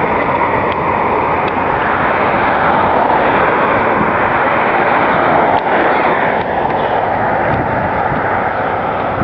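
Steady loud rushing noise of road traffic on a busy boulevard, with no single engine standing out.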